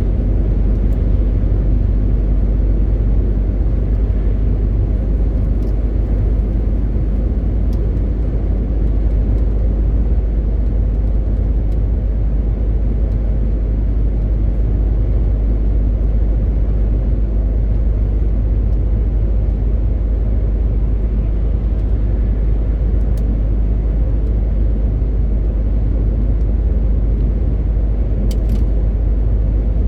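MAN TGX 18.520 lorry driving at a steady pace: a constant low drone of engine and road noise, with a few faint clicks.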